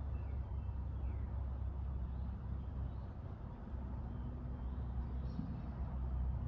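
Steady low background hum, with a few faint high chirps.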